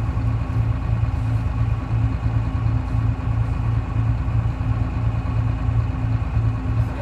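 Detroit Diesel 6V71 two-stroke V6 diesel engine of a 1970-71 GMC New Look bus running steadily, a low drone that pulses about three times a second.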